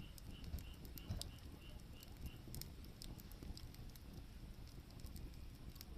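Firewood burning, crackling with scattered sharp pops and snaps over a low rumble. A faint high chirp repeats about three times a second through the first two seconds or so, then stops.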